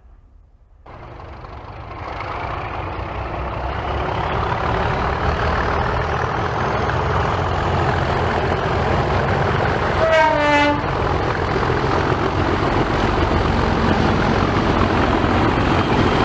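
Diesel locomotive engine running hard and building in loudness, with a faint whine rising in pitch, and one short horn blast about ten seconds in.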